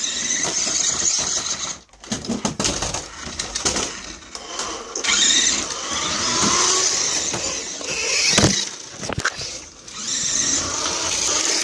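Toy radio-controlled cars' small electric motors and gears whirring in stop-start spurts as they drive, with a couple of sharp knocks about two-thirds of the way through.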